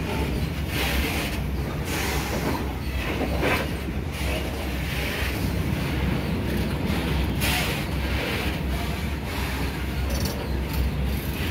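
Freight train wagons rolling past: a steady low rumble of wheels on the rails, with brief swells of wheel clatter about every second.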